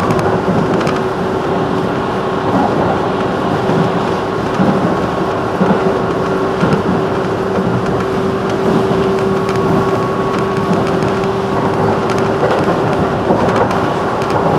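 JR 211 series electric train running at speed, heard from inside the car: a steady rumble of wheels on rail with a steady whine running through it.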